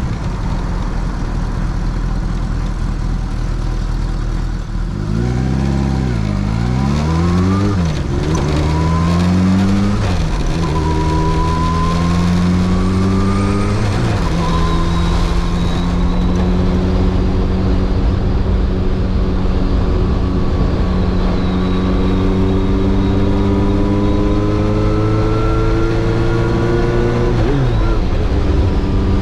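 Kawasaki Zephyr 750's air-cooled inline-four engine on the move, first running steadily, then revved up and down. It then pulls away in rising steps, with the pitch dropping at each upshift. A long, slow climb in pitch in one gear ends in a sharp drop near the end.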